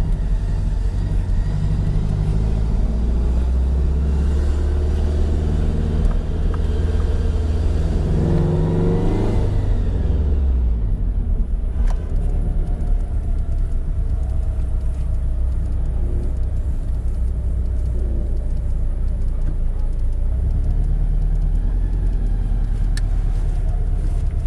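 Flat-four boxer engine of a Scion FR-S/Subaru BRZ-type sports car with reworked exhaust, heard from inside the cabin, pulling away and accelerating. Its note rises about eight to ten seconds in, then settles into a steady drone as the car cruises.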